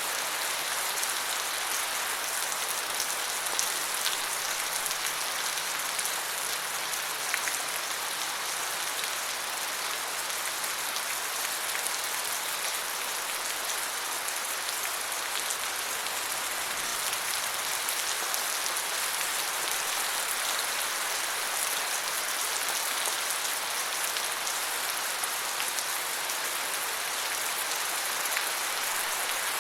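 Steady rain falling on forest foliage, an even hiss with scattered individual drop ticks.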